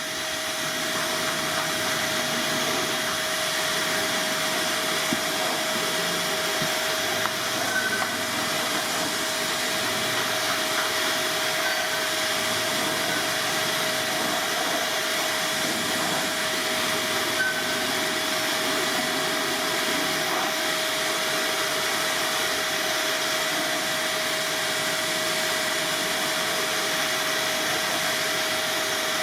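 An electric blower motor running steadily, moving air with a constant hiss and an even hum.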